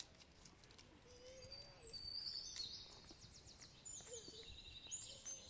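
Faint birdsong: high chirps and quick trills, starting about a second and a half in and going on to the end.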